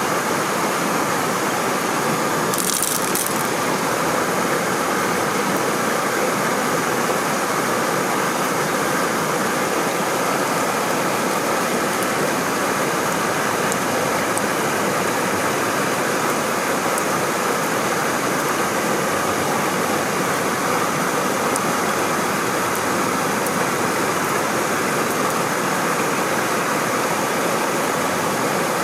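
Steady rushing of a waterfall and the stream below it, with a short high hiss about three seconds in.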